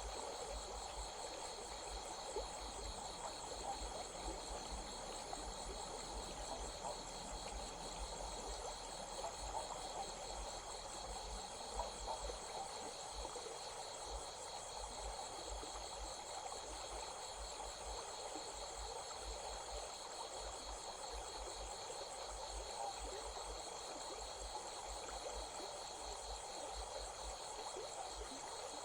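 Insects trilling steadily in a fast, even pulse, high-pitched, over the running water of a stream.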